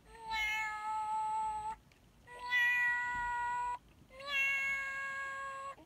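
FurReal Friends toy kitten's electronic voice singing in long, held meow notes: three notes of about a second and a half each, stepping slightly up in pitch.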